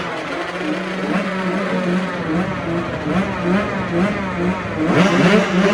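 Motocross race engines revving, their pitch stepping up and down as the riders work the throttle, with a louder engine coming in with a rising pitch about five seconds in.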